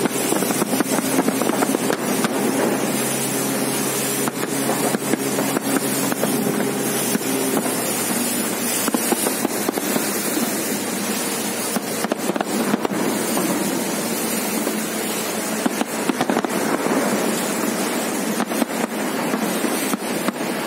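Fireworks going off with scattered bangs, the sharpest cluster about halfway through, over the steady noise of a motorboat running on the river, with wind and water.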